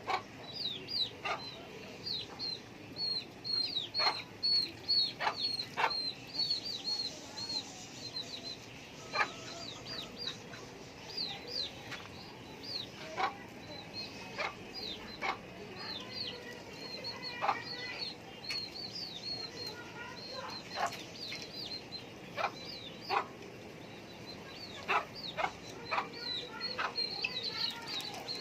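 Chickens clucking in short, sharp calls, over a steady run of rapid high-pitched chirping.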